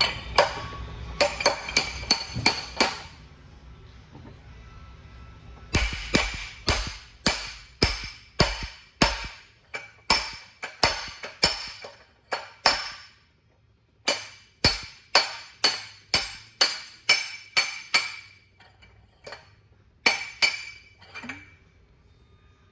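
Hammer blows on steel parts of a truck transmission being assembled, each strike ringing briefly. The strikes come in runs, roughly one to two a second, with short pauses between runs.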